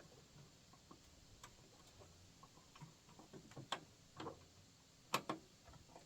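Scattered light metallic clicks and knocks of a wedged cotter pin and linkage bar on a riding mower's deck being worked at by hand. The clicks come more often and louder in the second half, with a sharper knock about five seconds in.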